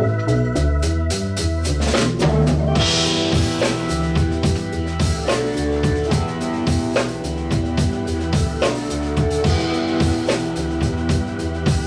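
Live rock band playing the instrumental intro of a song: a drum kit beats a steady pattern on bass drum and snare under a held bass line and chords. A cymbal crash comes about three seconds in.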